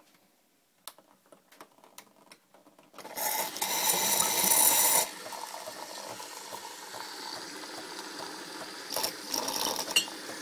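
Jura-Capresso E8 fully automatic coffee machine at work: a few faint clicks, then about three seconds in a loud mechanical whirr lasting about two seconds, cutting down to a steadier, quieter running with water-like noise and occasional clicks.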